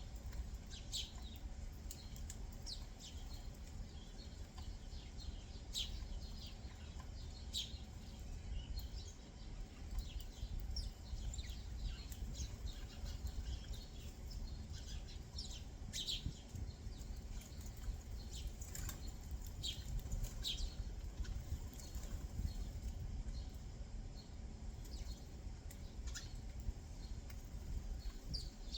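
Backyard songbirds chirping: many short, scattered high chirps and calls throughout, over a steady low background rumble.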